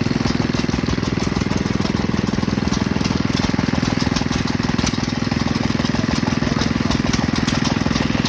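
Hit-and-miss stationary engines running steadily, a fast even chugging with scattered sharp clicks over it.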